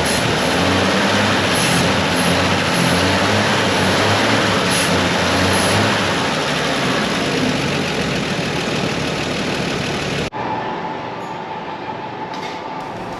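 A 1961 Chevrolet C-10's six-cylinder engine running loud and steady after years of sitting. It cuts off abruptly about ten seconds in, giving way to a quieter, different sound.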